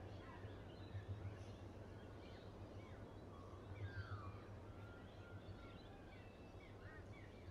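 Faint birdsong: many short chirps scattered throughout, over a steady low hum.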